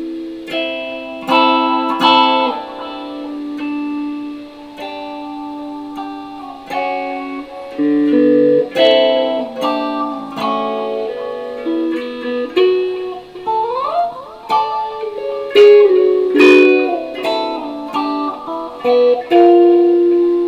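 Electric guitar played solo: plucked single notes and chords that ring and die away, with a quick upward slide of the notes about two thirds of the way through.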